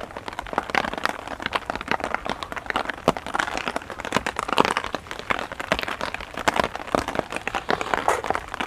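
Heavy rain pattering on the small umbrella over the microphone: a dense, irregular scatter of close ticks. A few louder rustles come about three to five seconds in.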